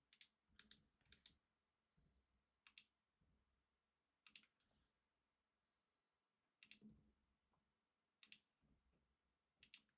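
Faint, scattered clicks of a computer mouse and keyboard, some single and some in quick pairs, irregularly spaced with pauses between them, against near silence.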